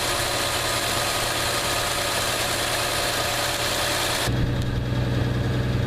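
Chrysler Slant Six engine idling steadily. About four seconds in, the sound changes abruptly, becoming deeper and fuller with less hiss.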